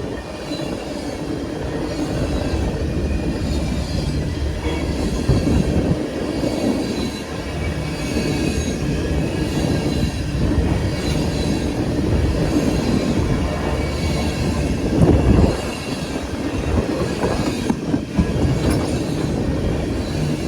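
Freight train cars rolling past, steel wheels squealing in thin high tones over a steady rolling noise.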